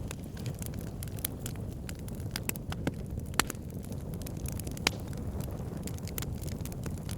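Fireplace fire crackling: a dense run of small snaps over a steady low rumble, with two louder pops in the middle.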